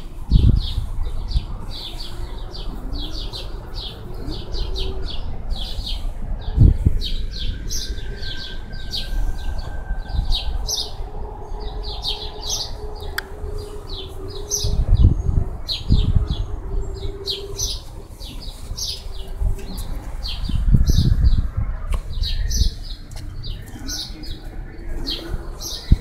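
Small birds chirping in quick, repeated short notes, with a few dull low thumps.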